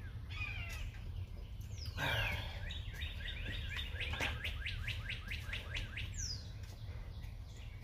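A songbird singing: a falling whistled note, then a quick run of repeated short chirps at about five a second for a few seconds, and another falling note near the end.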